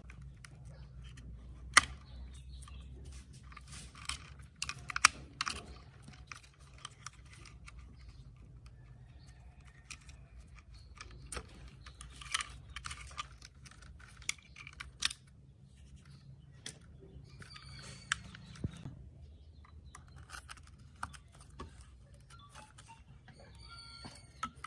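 Scattered sharp clicks and knocks of hard parts being handled at irregular intervals, over a low steady hum.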